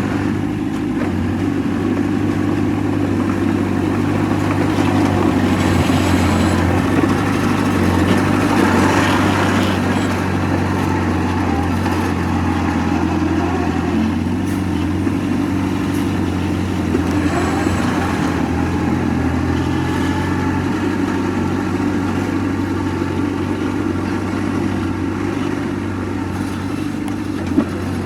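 Heavy diesel engine of earthmoving equipment running steadily, with two rougher, noisier stretches, one from about a fifth of the way in to a third, and a shorter one past halfway. A single sharp knock comes near the end.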